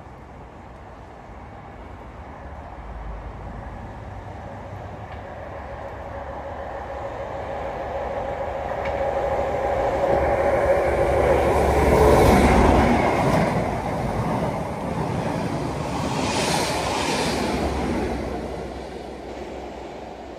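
Class 43 HST diesel power cars approaching and passing at speed, growing steadily louder to a peak about twelve seconds in, swelling again a few seconds later, then fading as the train runs away.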